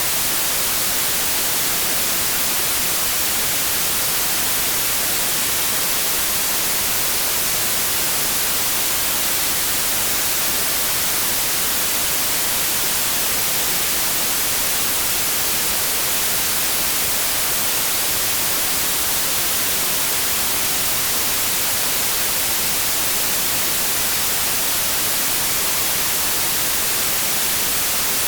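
Electronically generated white noise: a steady, even hiss with no change in level and nothing else in it.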